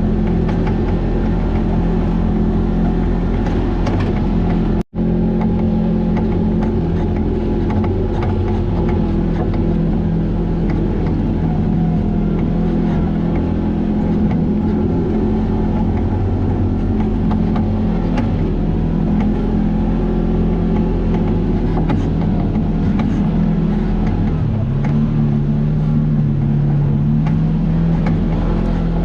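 Vehicle engine running steadily under way, with its note rising about three-quarters of the way through. The sound cuts out for an instant about five seconds in.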